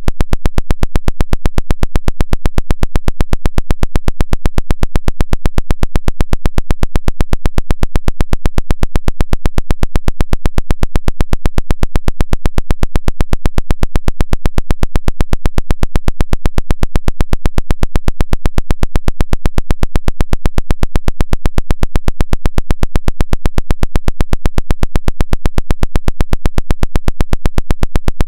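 'Woodpecker' radio signal: a loud, rapid, perfectly even train of harsh tapping pulses, about ten a second.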